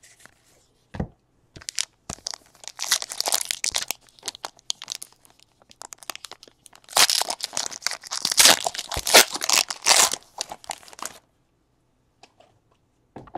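Trading card pack wrappers being torn open and crinkled, in two bouts of crackling, with a single knock about a second in.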